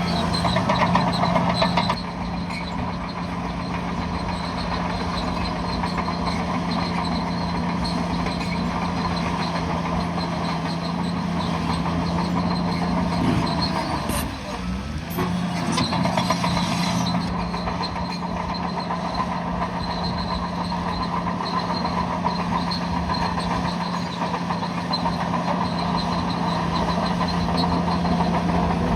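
Heavy diesel engine of a bulldozer running steadily under load, its tone dropping briefly about halfway through before picking up again.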